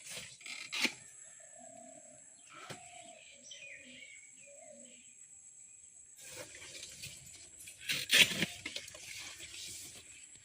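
Outdoor rural ambience: low dove-like cooing and small bird chirps, with a few sharp knocks near the start. A louder burst of rustling, knocking noise comes about eight seconds in.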